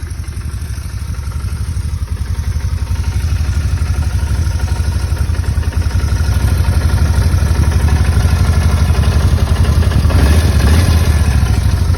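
Kawasaki motorcycle engine idling steadily, growing louder over the first few seconds and then holding. A light fuel-pump buzz may sit under it, which the owner judges normal.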